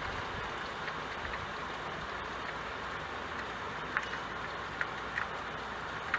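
Steady rain hiss with a few light drip ticks about four to five seconds in.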